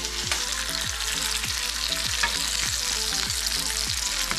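Masala-coated quail sizzling steadily as it pan-fries in hot oil, with the pieces being turned and stirred with a metal spatula.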